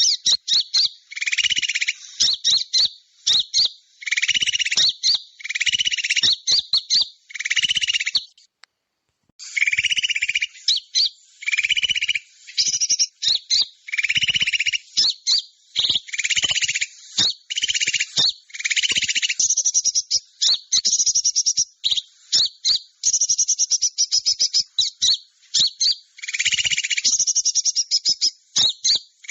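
Small-bird lure call recording: dense, high-pitched chirping and fast pulsed trills in repeated bursts, broken by a brief silent gap about eight and a half seconds in.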